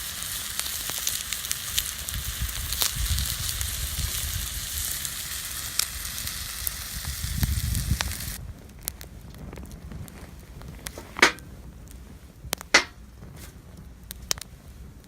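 Wood campfire burning in a small fire pit, crackling over a dense hiss. About eight seconds in the sound drops suddenly to quieter crackling with two sharp pops.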